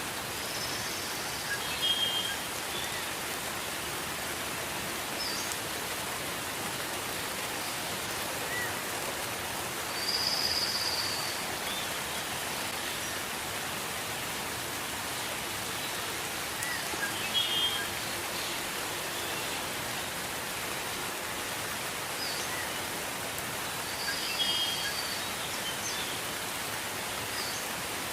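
Steady gentle rain, an even hiss, with a bird calling over it in short high chirps about four times.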